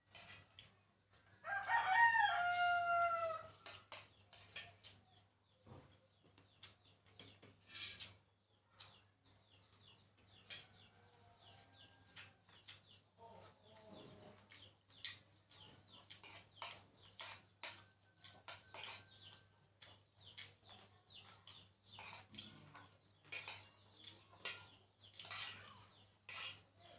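A rooster crows once, about two seconds in: one long call that falls in pitch, the loudest sound here. Around it comes a steady run of small clicks and smacks from chewing and eating, with a few faint bird calls in the middle.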